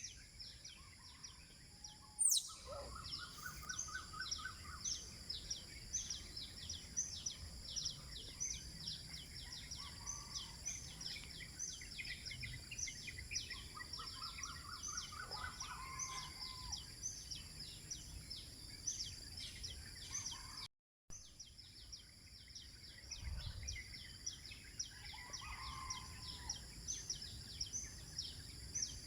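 Birds singing: a steady run of short, high chirps about three a second, with a lower, rapid trilling phrase that ends in a down-curving note, heard a few times. A single sharp click sounds about two seconds in, and the sound drops out for a moment about two-thirds of the way through.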